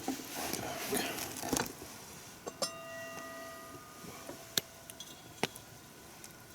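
Tableware clinking and clattering as soup is served. About two and a half seconds in, one struck dish or glass rings clearly for over a second, followed by two sharp clicks.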